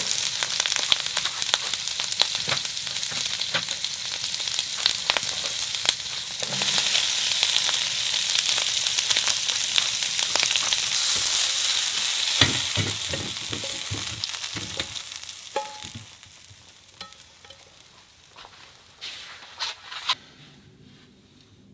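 Food sizzling and crackling in a hot pan. The sizzle dies away over the last few seconds, and a few light clicks follow near the end.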